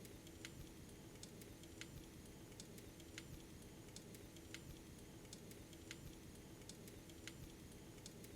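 Faint, regular light clicks, about three every two seconds, over a steady low hum.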